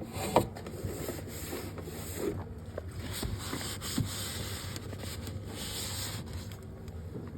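Cloth or sponge rubbing and scrubbing over the fridge's surfaces in repeated strokes, with a couple of sharp knocks, the loudest about half a second in.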